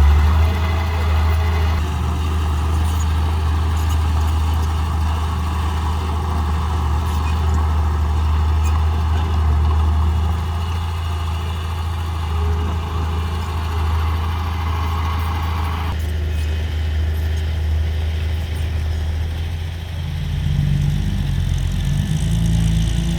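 Heavy diesel earthmoving machinery running steadily with a deep engine hum; near the end the engine note rises.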